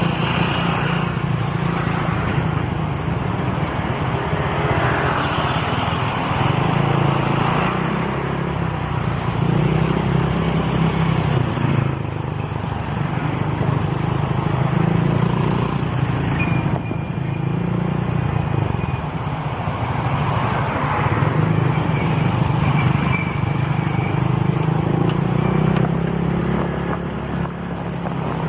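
Honda Click scooter's single-cylinder four-stroke engine with an aftermarket exhaust pipe, running under way while riding, its note swelling and easing with the throttle. Wind rushes over the microphone throughout.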